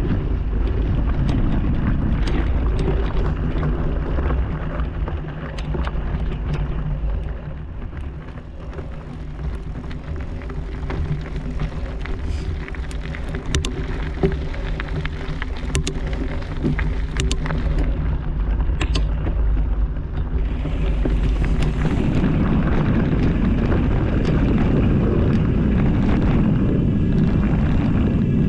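Mountain bike ride heard from on the bike: wind on the microphone and the rumble of tyres over dirt and rock, with scattered sharp clicks and knocks from the trail surface. It eases off a little about eight seconds in and grows louder and rougher about two thirds of the way through.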